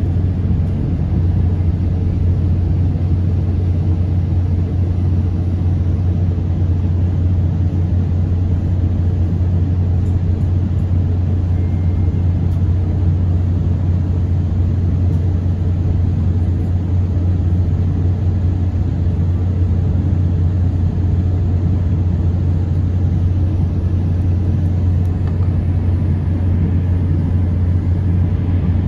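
Steady low rumble of a SunRail commuter train heard from inside a passenger coach as it runs along the track.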